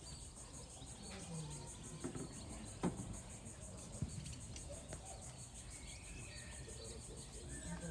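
Insects chirring steadily outdoors in a high, evenly pulsed drone, with a couple of sharp knocks, the loudest about three seconds in.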